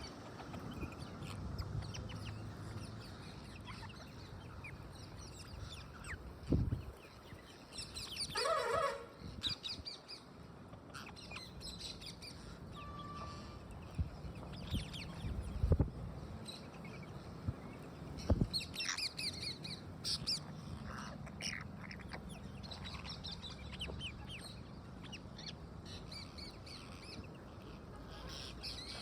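Pet parrots calling: one longer harsh call about eight seconds in, and scattered short high chirps, thickest around the middle of the stretch, with a few dull thumps between them.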